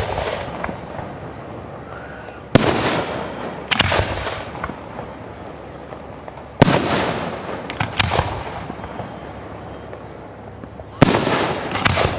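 Aerial fireworks shells bursting: sharp booms, mostly in pairs, roughly every four seconds. Each boom trails off in a long rolling echo.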